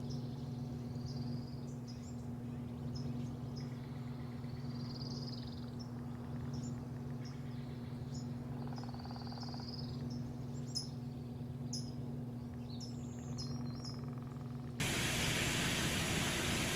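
Small birds chirping repeatedly over a steady mechanical hum. About fifteen seconds in, a loud steady rushing noise cuts in suddenly.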